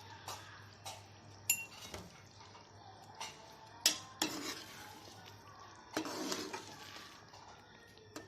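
Metal cutlery clinking and scraping against cookware: a handful of separate sharp clinks, one with a short ring, and a longer scrape about six seconds in.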